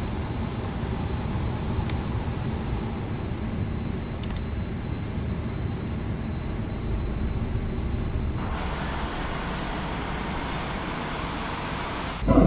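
Steady rumble and hiss of an Airbus A320neo during pushback. About eight seconds in, the sound shifts and a faint high whine begins, rising slowly.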